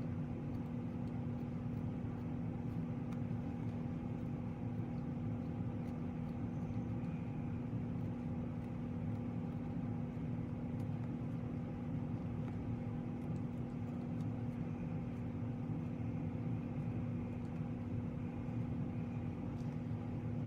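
A steady machine hum with a constant low tone and a rumble beneath it, unchanging throughout.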